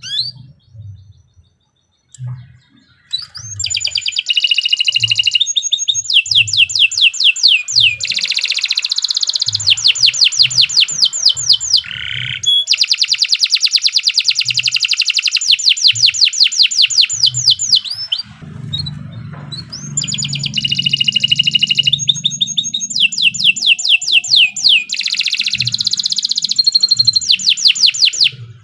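Domestic canary singing long, fast trills of rapidly repeated high notes. The song breaks off briefly in the first few seconds, then runs in long rolls with short pauses.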